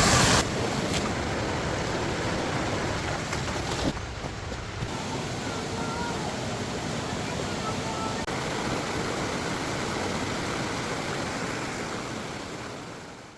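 Floodwater rushing: a steady, loud roar of water that fades out near the end.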